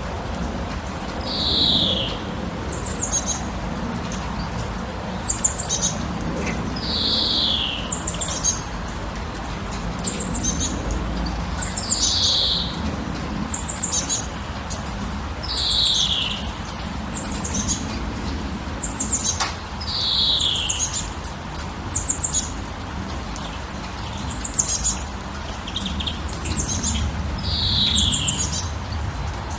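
Birds calling in a repeating pattern: a short high chirp about every second and a half, and a longer falling call every four to five seconds, over a steady low background noise.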